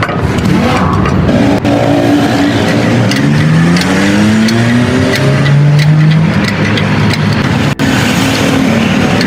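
A motor vehicle engine running and speeding up, its pitch rising twice near the middle, with scattered clicks and knocks.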